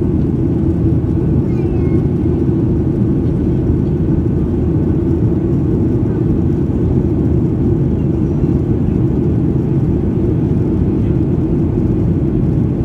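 Steady cabin noise of a Boeing 737-800 climbing after take-off: its CFM56-7B turbofans at climb thrust and the rush of air over the fuselage, an even, unbroken rumble heavy in the low range.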